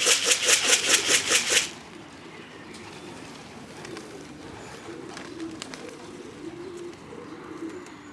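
A quick shaken rattle, about five shakes a second, stops sharply just under two seconds in. After it, pigeons coo softly and repeatedly, with a few faint clicks.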